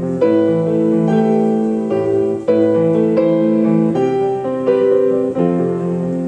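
Solo piano playing a slow, flowing piece, with broken chords moving under a melody and firmer chords struck about every two seconds.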